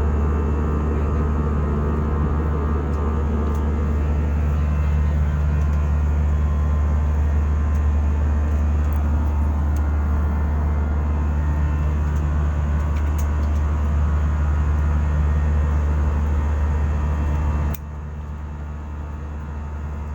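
Steady low drone of an airliner's passenger cabin: engine and airflow noise heard from inside the plane. It drops suddenly to a quieter level near the end.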